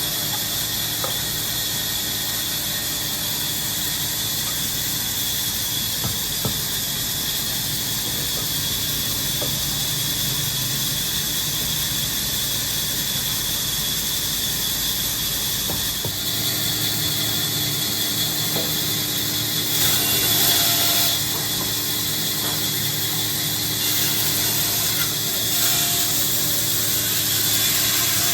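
Woodworking machinery running in a workshop with a steady high hiss and a faint squeal. The sound shifts about sixteen seconds in and swells briefly twice in the second half.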